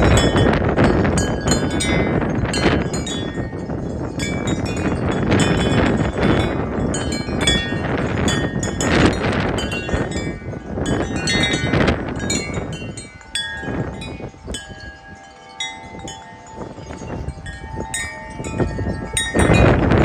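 Wind chimes ringing and clanging nonstop in strong, gusty wind, with heavy wind rumble on the microphone. The gusts ease about two-thirds of the way through, leaving the chime tones ringing clearly, then pick up again near the end.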